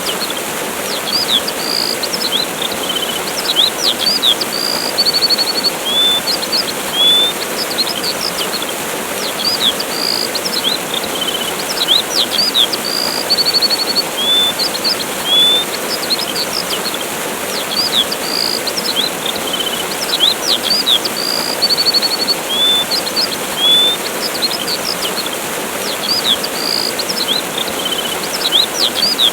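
Waterfall rushing steadily while birds chirp over it with short rising calls and quick trills, the same few calls recurring every eight seconds or so.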